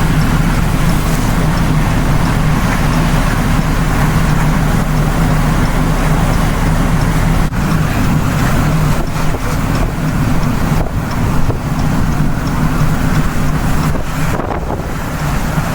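Strong storm wind roaring on the microphone as a loud, steady low rumble, with a few brief dips in level.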